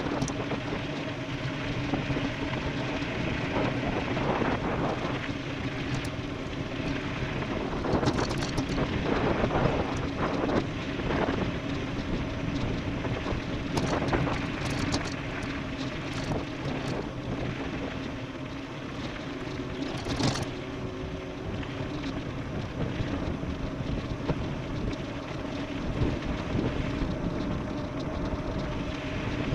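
Wind rushing over the microphone and tyre noise from an e-bike descending at speed, with a steady hum and a few sharp clicks and rattles from bumps.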